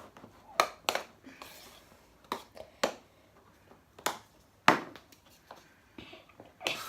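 Irregular clicks and clacks of a spoon knocking and scraping in a bowl of sticky slime as it is stirred, about a dozen over several seconds. A steady hiss starts near the end.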